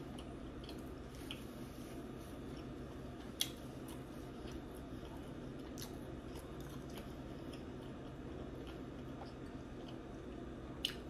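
A person chewing food with soft, wet mouth sounds and scattered small clicks, the sharpest about three and a half seconds in, over a steady low hum.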